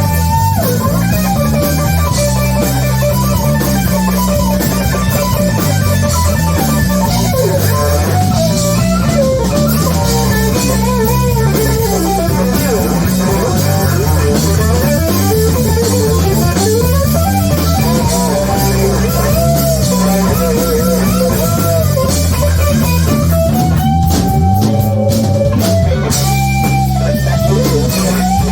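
A rock band playing live: electric guitar over bass guitar and drum kit, with a lead line of sliding, bending notes above a steady bass.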